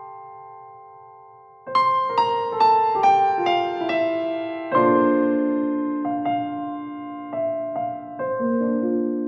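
Background piano music: a held chord fades away, then a run of single notes steps downward from about two seconds in, followed by a new chord about halfway through and a few softer notes.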